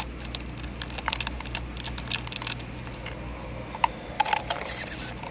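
Scattered light clicks and taps of plastic freezer panels and parts being handled and fitted back together, over a steady low hum.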